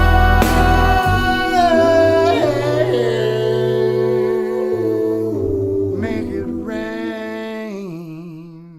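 End of a blues song: a man's wordless humming or singing over sustained instrumental chords that slowly fade. It closes on a held note with vibrato that dies away.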